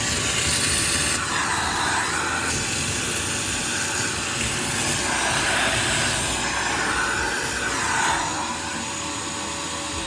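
Wet vacuum running steadily with a constant hum, sucking flush water out of the bottom of a window air conditioner. It is switched off at the very end and winds down.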